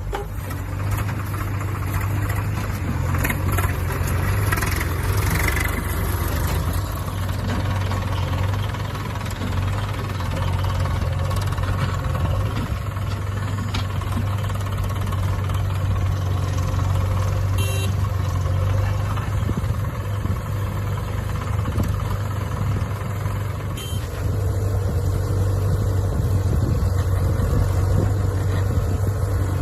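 Swaraj 744 FE tractor's diesel engine running steadily with a low drone, a little louder near the end.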